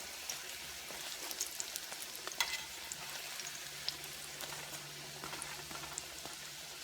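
Jamaican fried dumplings frying in shallow oil in a pan: a steady sizzling hiss with scattered crackles and pops.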